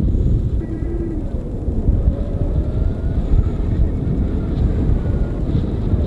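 Wind rushing over the microphone in flight: a loud, steady low rush with faint tones wavering in pitch above it.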